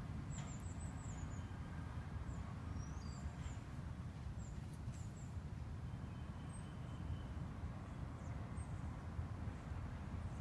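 Small songbirds giving short, very high thin calls and chirps, a quick run of them about half a second in and a few more over the next few seconds, over a steady low rumble.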